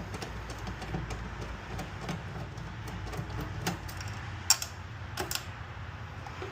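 Scattered light clicks and taps of metal parts and hand tools being handled as a microwave oven's magnetron is worked loose, with a sharper click about four and a half seconds in.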